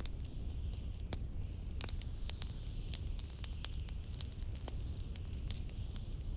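Fireplace crackling, with frequent sharp irregular pops, over a steady low rumble of wind and a soft steady hiss.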